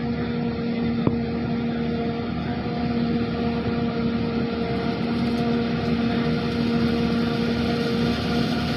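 Heavy silage-harvest machinery, forage harvester or tractor, running steadily with an even engine drone, and one sharp click about a second in.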